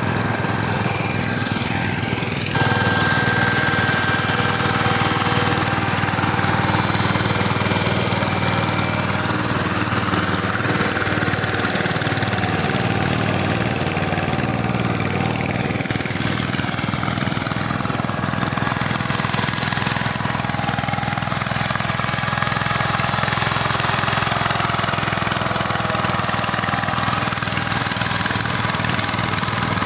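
Diesel farm tractor engine running steadily under load, its pitch rising and falling slowly. It gets abruptly louder about two and a half seconds in.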